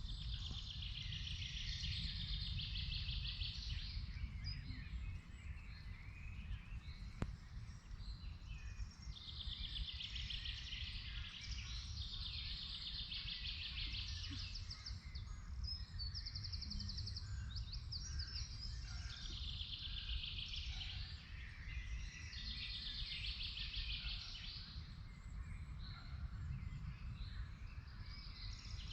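Songbirds singing: one bird repeats a rapid trilled phrase of two to three seconds every few seconds, with scattered chirps between, over a steady low rumble.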